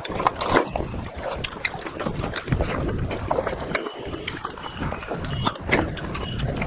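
Close-miked eating sounds: wet chewing and lip smacks, with many short sharp clicks.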